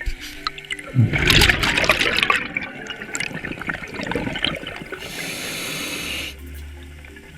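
Scuba diver breathing through a regulator underwater: a loud burst of exhaled bubbles about a second in, then a steady inhaling hiss from the regulator about five seconds in.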